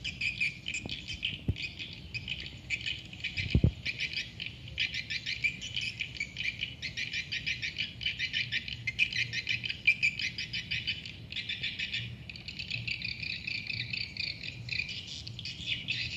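Swiftlets twittering in a dense, continuous chorus of rapid chirps repeated many times a second, the typical sound of a swiftlet nesting house. A short low thump comes about three and a half seconds in.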